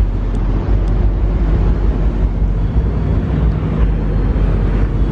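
A vehicle's engine running steadily with a low rumble, under heavy wind noise on the microphone.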